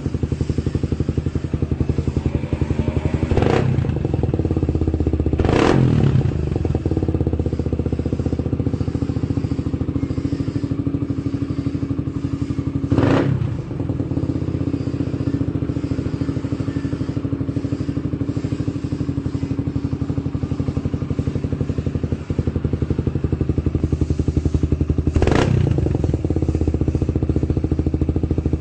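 Suzuki Satria FU's four-stroke single-cylinder engine idling through an aftermarket CLD Racing racing exhaust, with four short throttle blips: two close together in the first few seconds, one about halfway through and one near the end.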